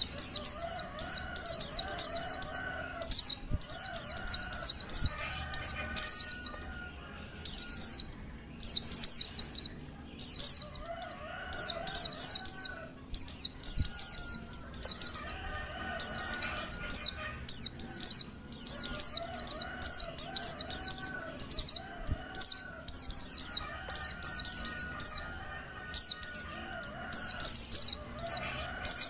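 Female white-eye (pleci) calling: bouts of rapid, very high-pitched chirps, each bout about a second long, repeated over and over with short pauses.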